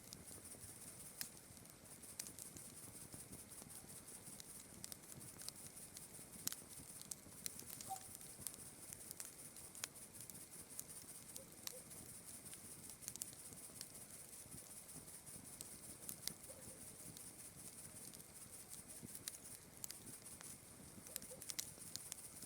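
Campfire crackling quietly, with irregular sharp pops and snaps, over a faint steady high-pitched hiss.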